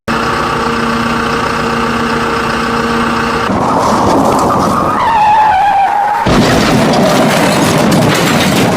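Vehicle engine sound, most likely an added effect: a steady engine drone for about three and a half seconds, then a noisier, rougher stretch with a falling screech like tyres skidding.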